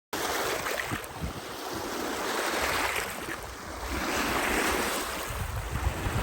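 Waves breaking and washing on a lake shore, rising and falling in swells, with wind gusting on the microphone from about five seconds in.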